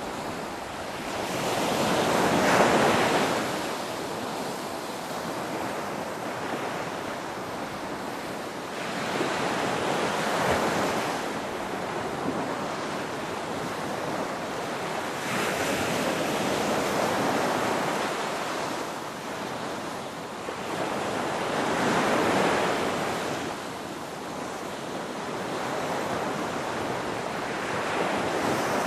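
Ocean surf: waves breaking and washing up, swelling and falling back in a slow rhythm about every six seconds, with a steady wash between them.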